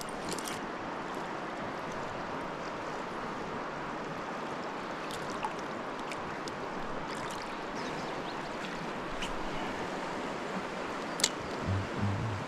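River water flowing steadily, a continuous rushing hiss. A few faint clicks sound through it, with one sharper click near the end.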